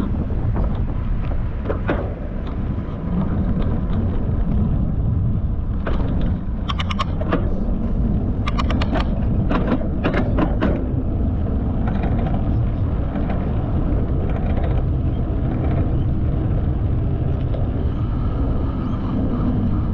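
Wind rumbling on the microphone of a moving bicycle, with road traffic going by. A run of sharp clicks comes in the middle.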